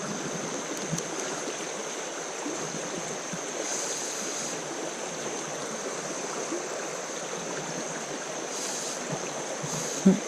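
Fast creek rapids rushing steadily over rocks, with a brief louder sound just before the end.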